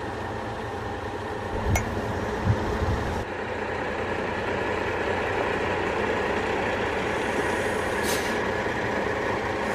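Heavy tow truck's engine running steadily, with a few low thumps and a click about two seconds in and a brief hiss about eight seconds in.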